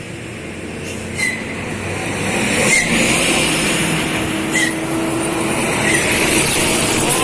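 Mitsubishi Fuso truck's diesel engine straining on a steep climb, getting louder over the first few seconds and then holding, with short high chirps every second or two.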